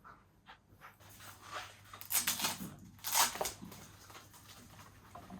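Workshop handling noises: two short rustling, scraping sounds about two and three seconds in, over a faint steady hum.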